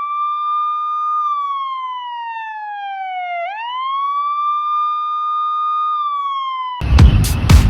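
Electronic siren wail: one clean tone that rises, holds, sinks slowly and rises again. Near the end it is cut off abruptly by loud dance music with a heavy beat.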